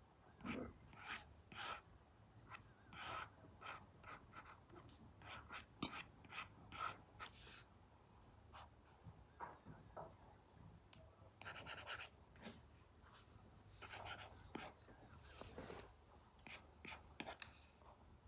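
Apple Pencil tip scratching and tapping on an iPad fitted with a paper-like matte screen protector, in short irregular drawing strokes with a few longer scratches.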